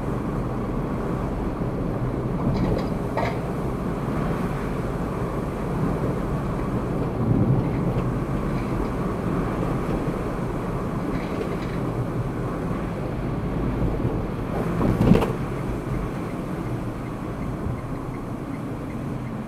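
Steady road and engine noise inside a moving car's cabin, picked up by a dashcam. It is broken by short knocks about seven and a half seconds in and again about fifteen seconds in, the second being the loudest.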